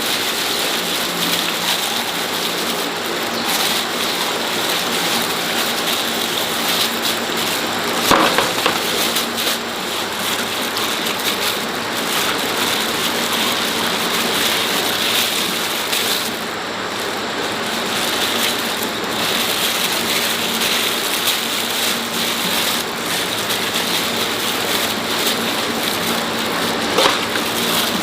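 Steady rain falling, with a short sharp knock about eight seconds in and another near the end.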